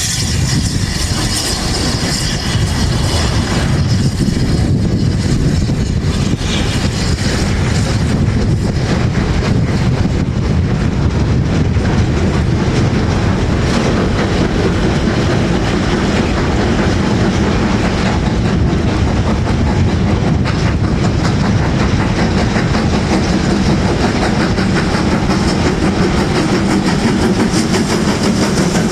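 A train passing close by, its carriage wheels clattering steadily over the track.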